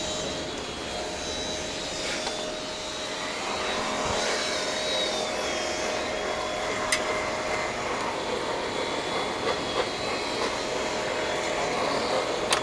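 Steady machine whir and hiss with a constant hum, from something running continuously in a welding shop.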